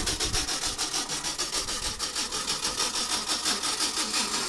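Ford 390 cubic-inch big-block V8 idling, heard close up, with an even, rapid ticking pulse, several beats a second.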